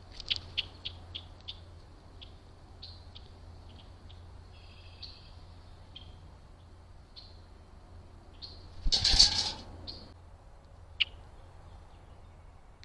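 Small birds chirping: a quick run of short, high chirps at the start, then scattered single chirps. About two-thirds of the way through comes a louder, rushing burst lasting about a second, followed shortly by one sharp chirp.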